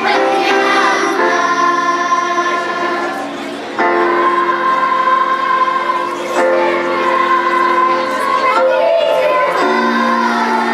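Children's chorus singing long held notes with accompaniment, the chord changing every few seconds.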